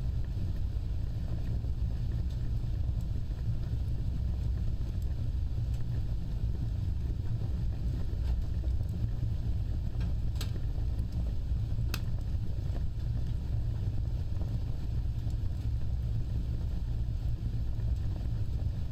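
Fire burning with a steady low roar, and a few sharp crackles about halfway through.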